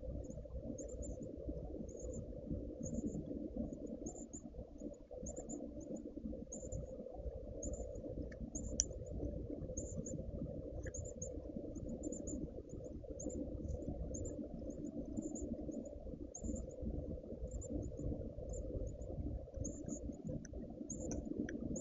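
Insects chirping in a steady, very high-pitched rhythm, about two chirps a second, over a low background rumble, with a couple of faint clicks.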